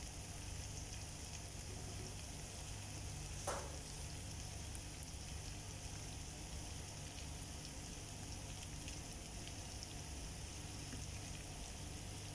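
Pepper chicken frying in its pan, a steady soft sizzling hiss, with one short sharp tap about three and a half seconds in.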